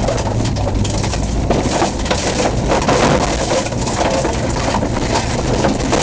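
Off-road four-wheel-drive vehicle's engine running steadily as it drives a rough dirt track, heard from inside the cabin, with frequent rattles and knocks from the body over the bumps.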